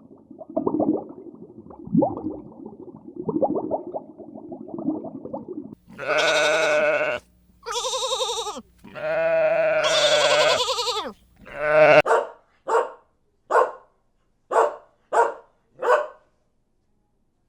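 An animal bleating: rough, irregular lower calls first, then three long wavering bleats and a run of six short ones.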